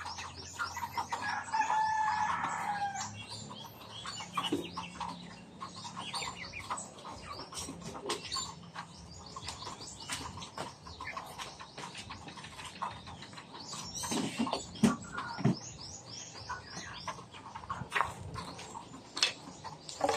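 Birds chirping in quick runs of short, high, falling chirps, with a longer, lower call from about one to three seconds in. A few sharp knocks stand out about two-thirds of the way through.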